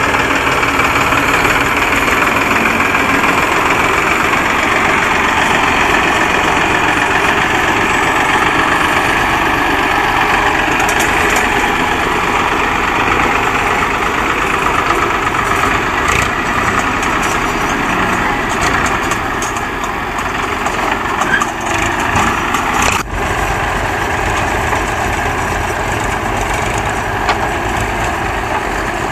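Heavy vehicle's diesel engine running steadily at close range, with a sharp click about three-quarters of the way through.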